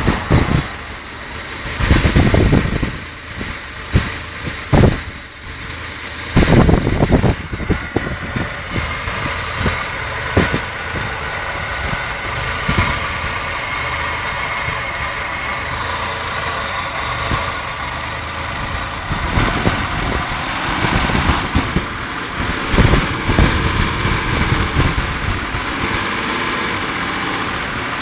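1994 Isuzu Trooper engine running with a misfire, uneven, with irregular louder surges in the first several seconds and again about twenty seconds in.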